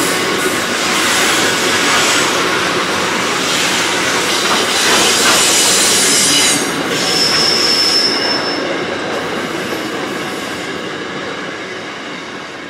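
Freight train box wagons rolling past, their steel wheels rumbling and clacking over the rails, with a brief high wheel squeal about seven seconds in. The sound fades as the last wagon goes by near the end.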